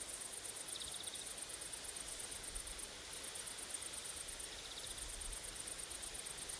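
Grasshoppers and crickets stridulating: a high, fast-pulsing chirr in long runs with brief breaks, and twice a shorter, lower trill from another insect.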